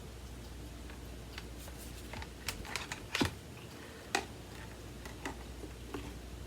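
Irregular plastic clicks and knocks from vacuum cleaner parts being handled and fitted together, with the loudest knock a little after three seconds in.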